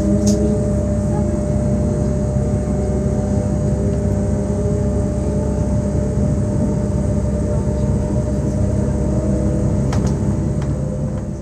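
Z2N electric multiple unit motor car Z 20778 running: a steady rumble with held motor whine tones that drift slightly in pitch. A sharp click comes about a third of a second in and another near the end, and the sound starts to fall away at the very end.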